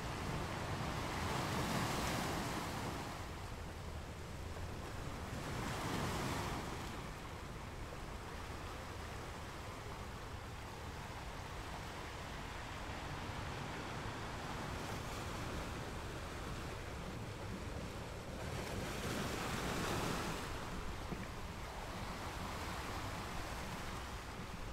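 Sea waves washing and slapping, a steady rush that swells up three times, with a low rumble of wind on the microphone.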